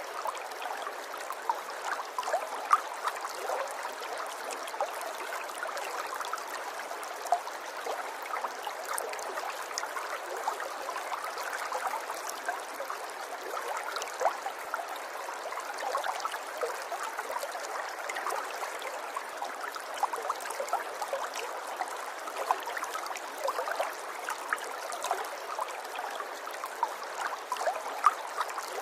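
River water running over stones, a steady babble and gurgle dotted with small splashes and trickles.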